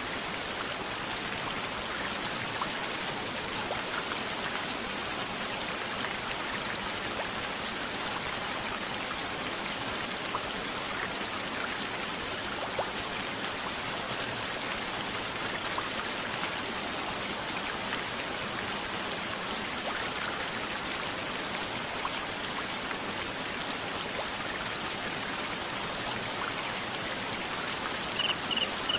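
Steady rain falling, an even patter with a few faint drips standing out. Near the end a quick run of high, short cricket chirps begins.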